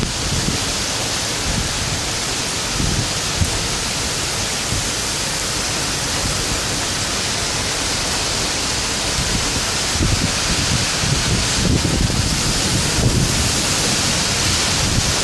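Torrential thunderstorm rain pouring steadily as a loud, even hiss, with wind gusting in low, uneven rumbles that grow stronger about two-thirds of the way through.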